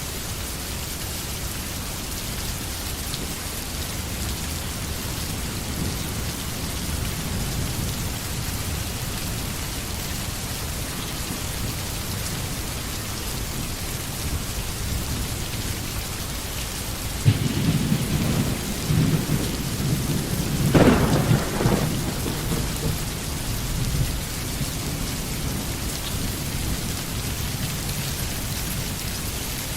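Steady rain falling on a forest, with a roll of thunder that breaks in suddenly about halfway through, cracks once at its peak and rumbles away within about seven seconds.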